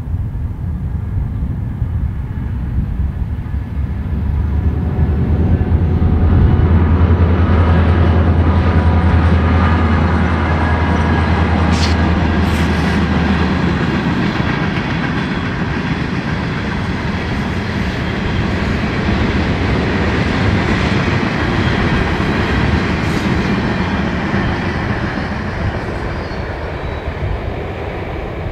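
Diesel freight train passing. The locomotives' low engine drone is loudest in the first half and stops about halfway through. The freight cars then roll by with steady wheel noise and a few sharp clanks, slowly fading.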